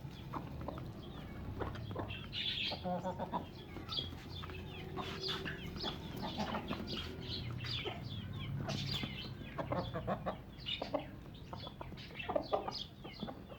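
Chickens clucking: many short, quick calls overlapping, as the flock crowds round fresh green feed.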